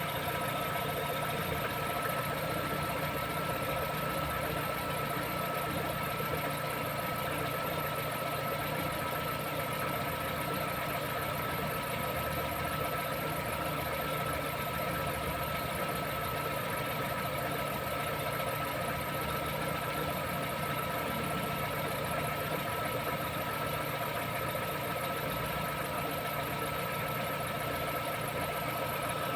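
Lada Vesta engine idling with a steady squeak from the alternator belt, resembling a chirping bearing. The owner found that silicone on the belt quiets it for a while, so the belt itself, not a pulley, is the cause.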